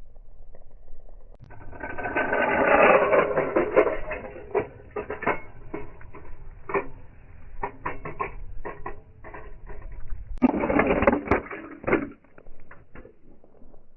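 Diecast toy cars crashing and tumbling: a dense, rough clatter of many small knocks and rattles in two loud clusters, one a couple of seconds in and one near the end, with scattered clicks between them.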